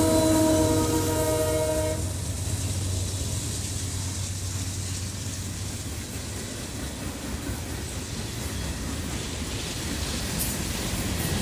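Diesel locomotive's multi-chime air horn sounding a chord that cuts off about two seconds in, followed by the low, steady rumble of the passing train, growing a little louder near the end.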